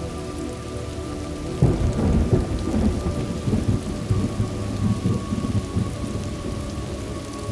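Thunderstorm: steady rain falling, with a thunderclap breaking about one and a half seconds in and rumbling for several seconds before it fades back into the rain.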